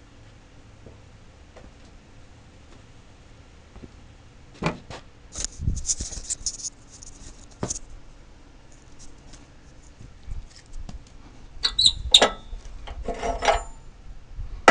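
Scattered knocks, clicks and rustling, starting about four and a half seconds in after a quiet start, with a second cluster near the end.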